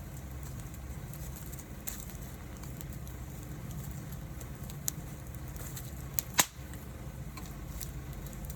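Wood fire burning with a steady low rumble and scattered sharp crackling pops, the loudest about six seconds in.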